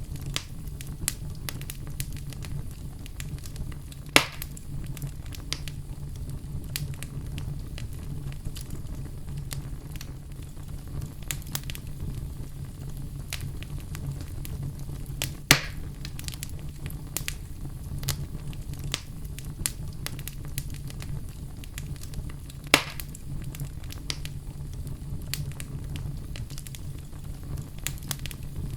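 Wood fire crackling steadily over a low rumble, with frequent small snaps and three sharper, louder pops spread across the stretch.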